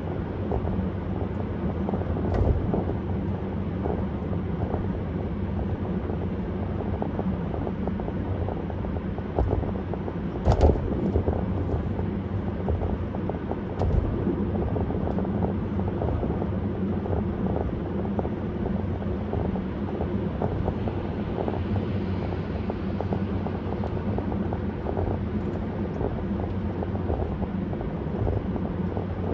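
Car driving at highway speed: a steady rumble of road and engine noise, broken by three sharp thumps, the loudest about ten seconds in.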